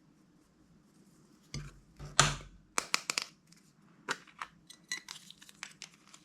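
Slime being handled: a loud squishing, tearing burst about two seconds in, then many small sharp crackling pops and clicks.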